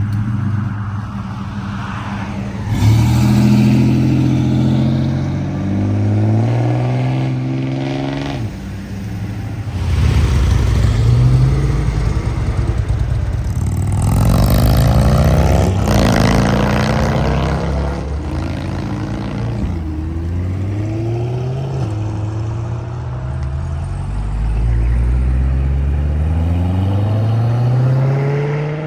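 Classic and muscle-car engines accelerating hard away, one car after another, each engine's pitch climbing as it revs. Near the end one engine climbs through several gear changes, its pitch dropping back at each shift.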